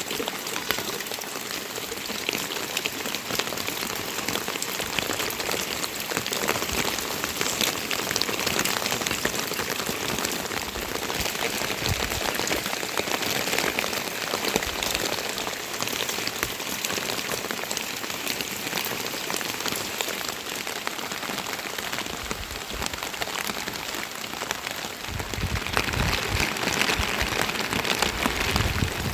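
Steady rain falling, a dense patter of drops striking surfaces. About 25 seconds in, a lower rushing sound swells up under it.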